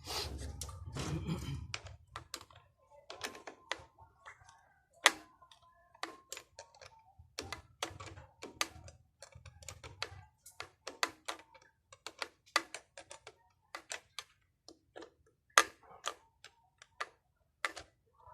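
Irregular sharp clicks and light knocks, a few a second, from tools and parts being handled during a pump motor repair. A low hum lies underneath and stops about ten seconds in.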